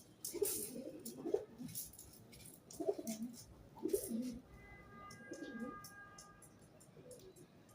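Pigeon cooing, four or five low rolling coos a second or so apart. Faint steady musical tones come in about halfway through.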